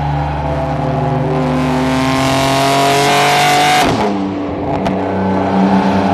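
BMW M3 F80's twin-turbo 3.0-litre inline-six accelerating, its note climbing steadily for about four seconds before dropping abruptly, then running on at a lower pitch.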